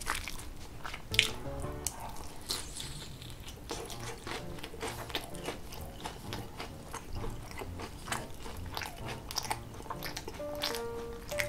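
Close-up chewing and crunching of sauce-glazed fried chicken gangjeong, with many short sharp crunches and wet, sticky mouth sounds. Faint background music runs underneath.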